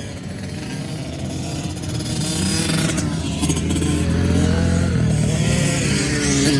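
Honda CRF110 dirt bike's small four-stroke single-cylinder engine on a motocross track, growing louder as it approaches and then holding close, its pitch rising and falling with the throttle.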